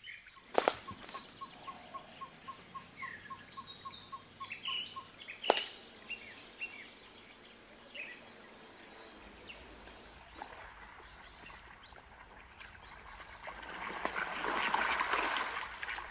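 Wildlife ambience of birds calling and chirping, with a rapid run of short pips at about four a second for several seconds. Two sharp cracks cut in, one near the start and one about five seconds in, and a rushing noise swells up near the end.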